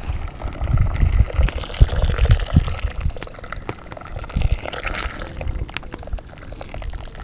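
Hot water being poured into a cast iron pot to rinse it out, with irregular low thumps in the first few seconds.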